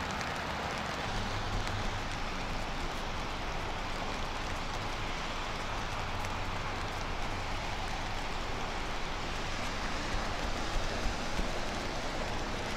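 Steady rain falling, an even hiss with a low rumble underneath and a few sharper taps near the end.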